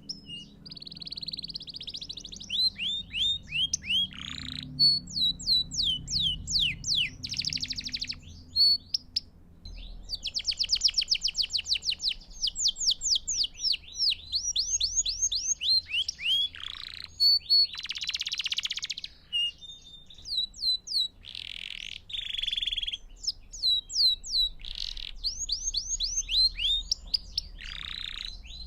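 A domestic canary (canário belga) singing a long, continuous song: phrases of rapidly repeated chirping notes and very fast rolling trills, each phrase switching to a new note type every second or two, with only short breaks.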